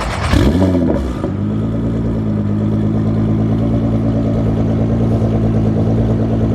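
A car engine blipped once, its pitch rising and falling quickly, then settling into a steady idle.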